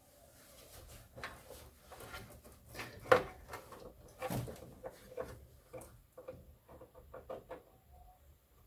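Hands handling cables and parts in a desktop PC case: scattered light clicks and knocks, the sharpest about three seconds in.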